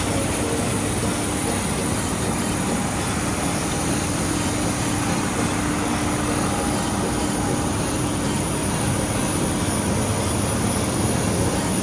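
Steady cabin noise inside a Boeing 737-800 on the ground after landing, its CFM56-7B engines running at low power with an even rushing noise and a faint steady hum.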